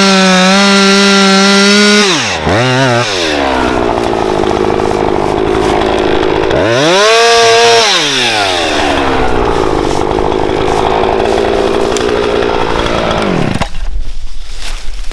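Husqvarna chainsaw running at high revs, dropping off sharply about two seconds in and revving back up. It is opened up again around seven seconds, then pulls down to a lower pitch with a rough cutting sound as it works through a firewood log. The engine stops shortly before the end.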